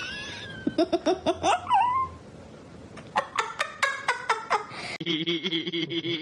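A person laughing in two runs of quick 'ha-ha' bursts.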